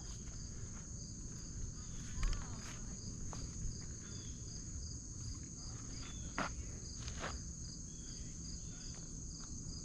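Insects trilling steadily in a high, even chorus, with a few faint clicks.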